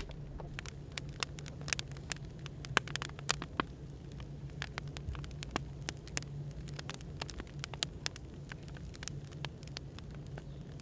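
Wood fire crackling, with irregular sharp pops and snaps over a steady low hum of background white noise.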